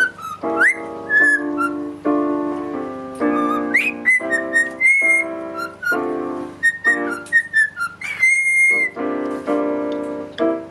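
A pet talking bird whistling short high notes that glide up and down, over a run of sustained pitched notes like a played melody.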